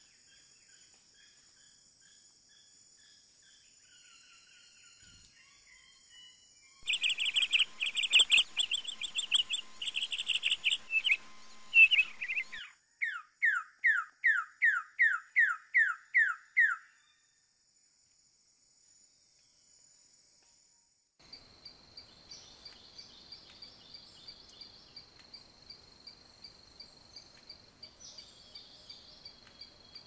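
Birds calling: about seven seconds in, a burst of loud, rapid chirps, followed by a run of about ten downward-sweeping whistled notes. Before the calls there is a steady high insect hum, and from about two-thirds of the way in a regular high-pitched ticking about twice a second, like a cricket or other insect.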